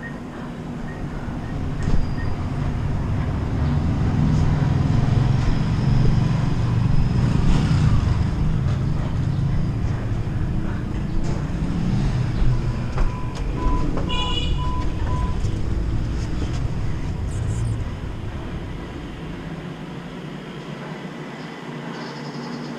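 Street traffic: motor vehicles running with a heavy low rumble that eases off near the end. A quick run of about five short beeps comes a little past the middle.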